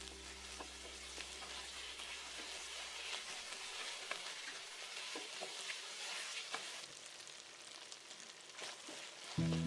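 Food sizzling in hot oil as it is stir-fried in a pan, with scattered sharp clicks of the spatula against the pan.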